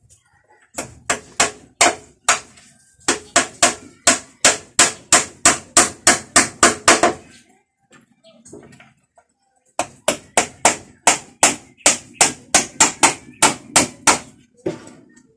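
Hammer blows, as in carpentry nailing: a few spaced strikes, then two runs of quick, even blows about three to four a second, separated by a pause of a couple of seconds, with one last strike near the end.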